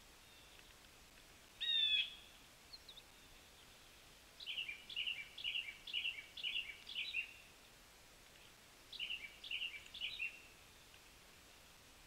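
Wild birds calling: one short, loud call about two seconds in, then two runs of quick repeated call notes, the first lasting about three seconds and the second about a second, over a faint steady background hiss.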